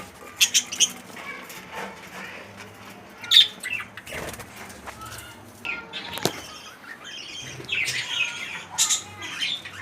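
Budgerigars chirping in short high calls while wings flap, with a few sharp knocks; the loudest comes about three and a half seconds in.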